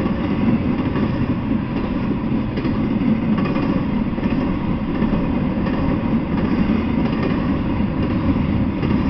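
Intermodal freight train rolling past close by: a steady rumble of steel wheels on the rails.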